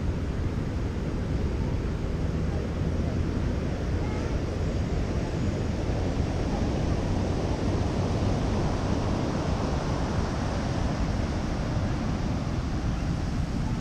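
Ocean surf breaking and washing up the beach, with wind buffeting the microphone. The wash swells louder around the middle. A low steady hum fades out about a second in.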